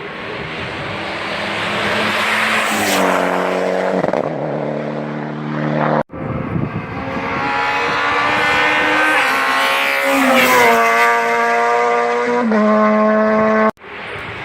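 Competition cars accelerating flat out in a hillclimb, engine pitch climbing through each gear and dropping back at every upshift. Two separate cars are heard, one clip cutting abruptly to the next about six seconds in.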